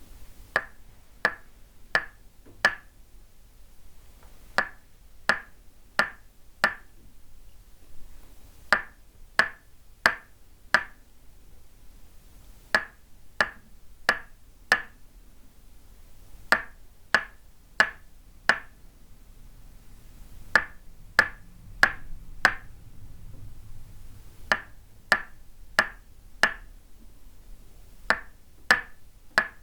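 Tok sen massage: a wooden mallet tapping a wooden stake held against the body, giving bright wooden knocks. The knocks come in sets of four, about 0.7 s apart, with a pause of about two seconds between sets.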